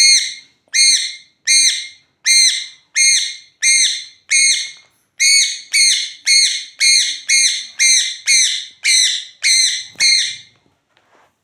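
Pet parrot calling: a long run of about sixteen short, loud, shrill calls, each the same arched note, about one and a half a second, with a brief pause near the middle before they stop near the end.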